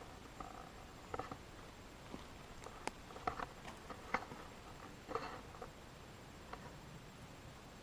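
Irregular soft crackles and taps, about one or two a second, over a faint steady hiss.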